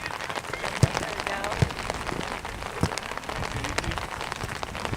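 Steady rain with irregular drops tapping close to the microphone, with faint distant shouting from the field.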